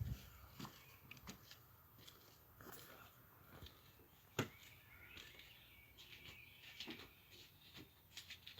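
Faint bird chirps and song, with one sharp click a little over four seconds in.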